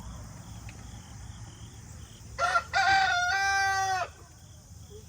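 Rooster crowing once, about two and a half seconds in: a couple of short notes, then a long held note that drops away at the end. Crickets chirp steadily underneath.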